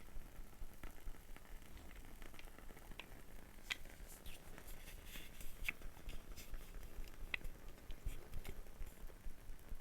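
Wooden-wick crackle candle burning, its wick giving faint, irregular small pops and ticks.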